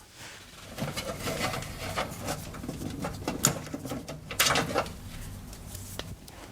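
Hands handling a hard drive and its cables: irregular small clicks, knocks and rubbing as the drive is unplugged and lifted out, over a steady low hum.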